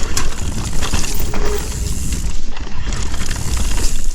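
Mountain bike descending a rough trail: tyres rolling over dirt and rock, with the chain and frame rattling and scattered sharp knocks from hits on the way down, over a steady low rumble.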